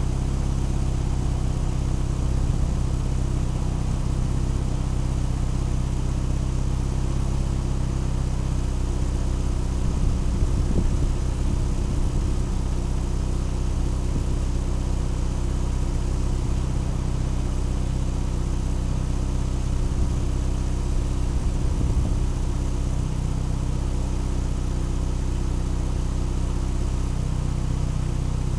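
Car engine idling steadily, with a couple of brief, slightly louder bursts of noise about ten seconds in and again around twenty-two seconds.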